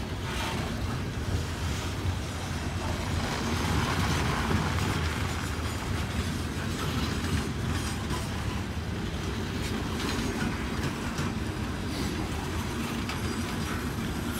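Loaded coal hopper cars of a long, heavy freight train rolling past, with a steady rumble and wheels clicking over the rail joints. It swells a little about four seconds in.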